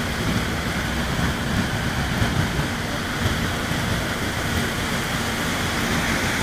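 Heavy rain pouring steadily onto trees and a flooded street, a dense, even hiss.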